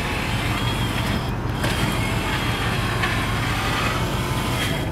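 Pontiac 403 cubic-inch (6.6 L) V8 idling steadily, heard from inside the cabin.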